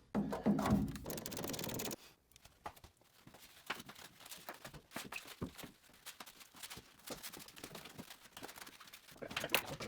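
Workshop clatter: a rush of noise for about the first two seconds, then a string of short, irregular clicks and knocks from tools and parts being handled.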